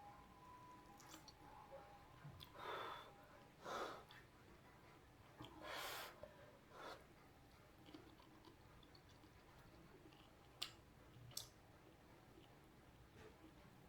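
Near silence in a small room: a few soft breaths and two light clicks about two-thirds of the way in.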